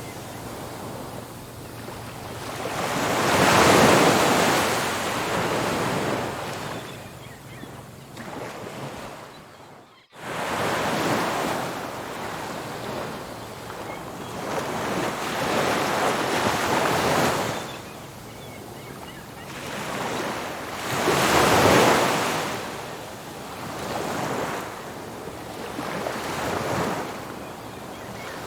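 Ocean surf: waves breaking and washing up a beach in slow, rising and falling surges, the biggest about four seconds in and again a little past twenty seconds. The sound drops out abruptly for an instant about ten seconds in, then the surf resumes.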